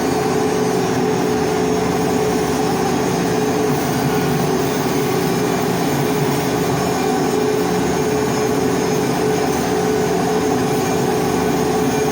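Electric arc welding while hardfacing a steel pipe: a steady crackling hiss from the arc, with a constant hum underneath.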